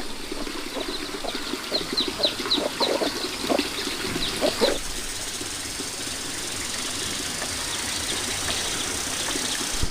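A run of short, quick bird or poultry calls, many in a row through the first five seconds or so, over a steady background hiss.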